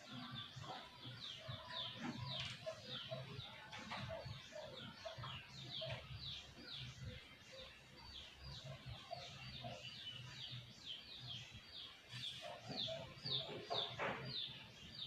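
Faint birds chirping: a rapid, continuous run of short high chirps, several a second.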